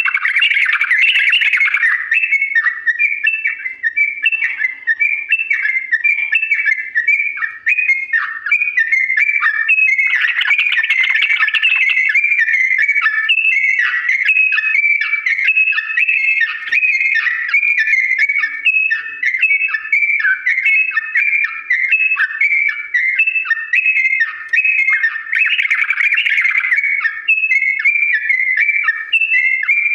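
Yellow-vented bulbul (trucukan) singing a long, unbroken run of rapid repeated chirping notes. The song swells into louder, denser bouts about a second in, around ten seconds in and again near twenty-five seconds.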